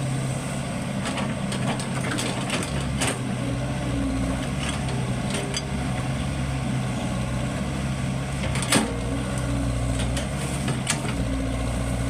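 Excavator diesel engine running steadily, with scattered knocks and clicks and one sharper knock about nine seconds in.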